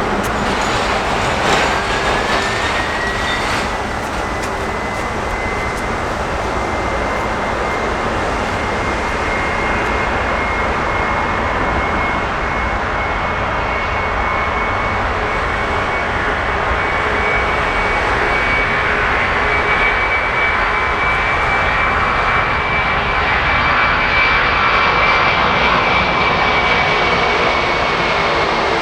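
Jet airliner's engines running loud: a dense roar with a high whine that rises over the first few seconds, then holds steady before easing slightly near the end.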